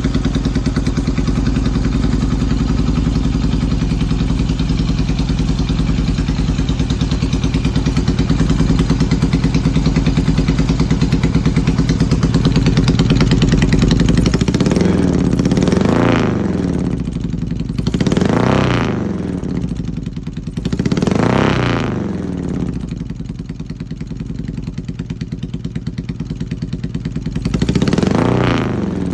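Yamaha XS650 parallel-twin engine idling steadily for about half the time, then revved up and let fall back about four times. It is running on an old Hitachi TCI ignition and is misfiring.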